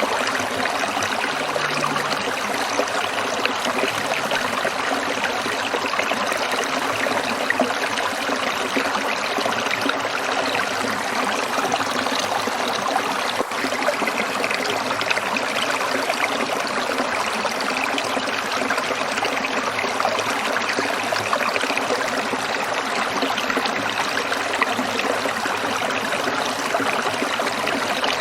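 Small stream trickling and burbling over rocks, a steady even rush of water.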